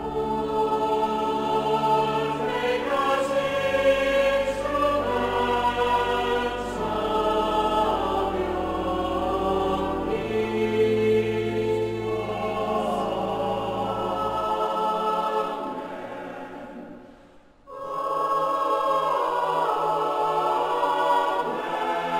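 Cathedral choir singing a slow sacred choral piece in held phrases over low sustained accompaniment. About seventeen seconds in it fades nearly away, then the choir comes back in.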